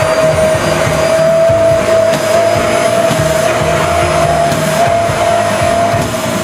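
Vacuum cleaner running steadily, a constant high whine over a rush of air.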